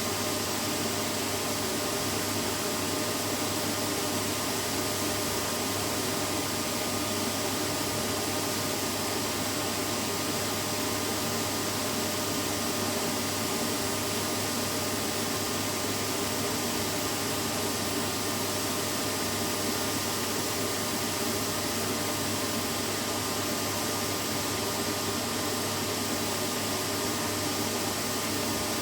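Vacuum cleaner running steadily: an even rushing noise with a faint hum and whine, unchanging throughout.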